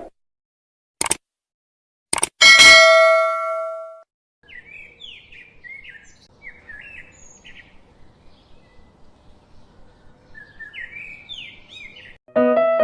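A click, then a sharp bell-like ding that rings out for about a second and a half and fades. Then small birds chirp faintly in short, repeated phrases for several seconds, and piano notes begin near the end.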